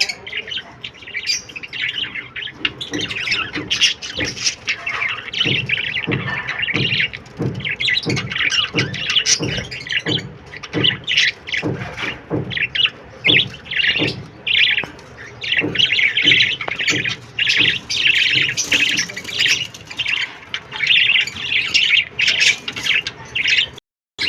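Small pet parrots chirping and squawking in rapid, continuous chatter that breaks off briefly near the end.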